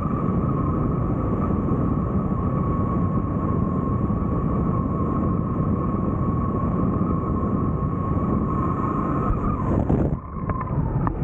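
Helicopter turbine and rotor noise: a loud, steady rumble with a steady high whine, which changes abruptly about ten seconds in.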